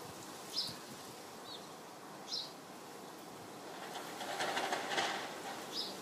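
A garden bird gives short, high chirps every second or two, against a steady outdoor hiss. A burst of crackly rustling comes about four to five seconds in.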